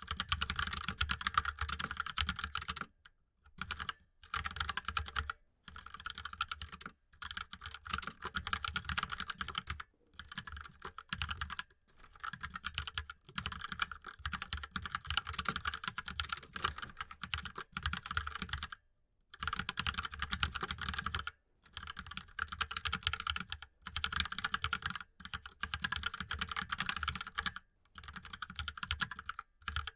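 Mechanical keyboard being typed on fast, with dense runs of keystroke clicks broken by brief pauses every one to three seconds.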